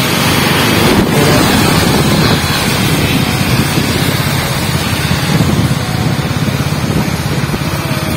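Wind buffeting the microphone in a steady, rapid flutter, with a vehicle running underneath, as heard while riding.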